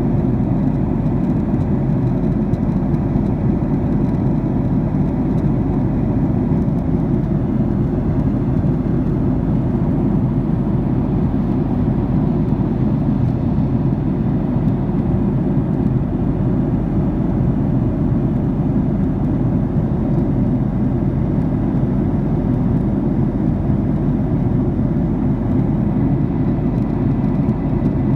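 Airliner cabin noise in flight: a steady low noise of jet engines and rushing air, with no change throughout.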